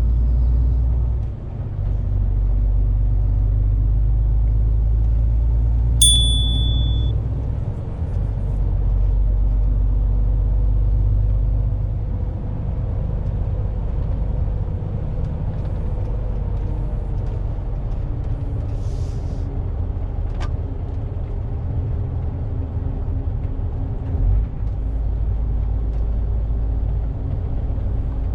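Lorry engine and road noise rumbling steadily inside the cab while driving, with a short high beep about six seconds in and a click about two-thirds of the way through.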